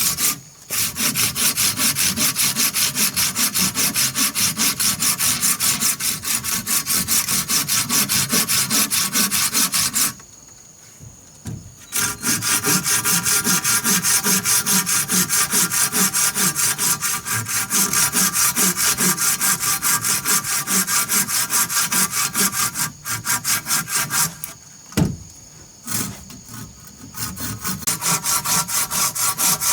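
Hand saw cutting through wood in quick, even back-and-forth strokes, stopping briefly twice, with a single sharp knock during the second pause.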